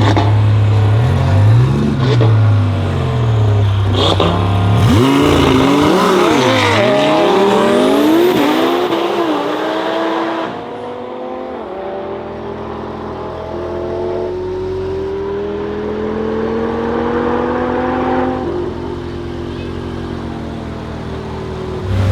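Twin-turbocharged V10 of a tuned Lamborghini Huracán Performante idling with a couple of revs, then launching about five seconds in and accelerating hard through the gears, its pitch climbing and dropping at each shift. From about ten seconds in it grows quieter, still pulling as it moves away.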